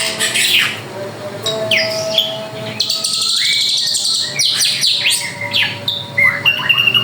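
Drongo (srigunting) singing a rapid, varied song of quick down-sweeping whistles, with a buzzy trill about three seconds in and a held whistle near the end.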